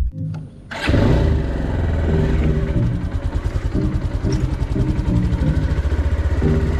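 A vehicle engine running steadily with a fast, even firing beat, starting suddenly about a second in, with music of held notes that change pitch in steps over it.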